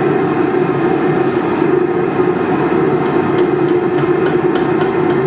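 Blacksmith's forge running with a steady, even rushing noise and no hammer strikes.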